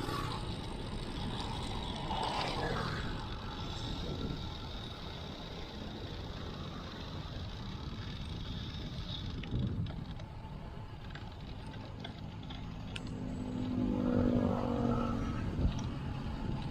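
Steady road and wind noise from riding a bicycle in traffic. A motor vehicle with a pitched engine drone passes close by, loudest about fourteen seconds in. A couple of short knocks come through.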